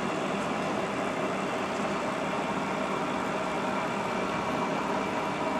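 Steady machine-shop background hum, an even mechanical drone with no breaks.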